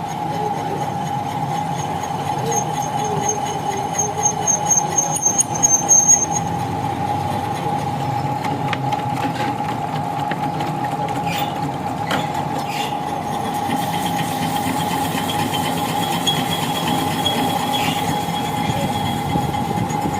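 Machine tool running steadily while cutting a hole in a hardened steel Belarus tractor axle shaft, with a high squeal of the cutter on the metal from about two to six seconds in and a softer high whine later. The squeal is a sign of how hard the shaft's steel is.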